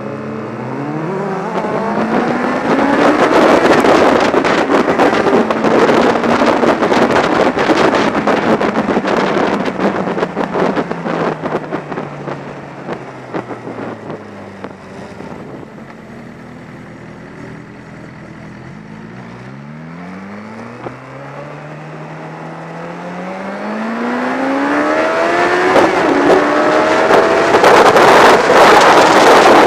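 Sport motorcycle engine accelerating hard, its note rising in steps through the gears, under loud wind rush on the camera microphone. About halfway it eases off, and the note falls and settles quieter as the bike slows. It then pulls away hard again, rising through the gears.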